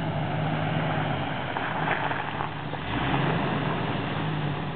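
Jeep Wrangler engine running at low speed as the 4x4 rolls up, a steady low hum that eases off briefly about two and a half seconds in before picking up again.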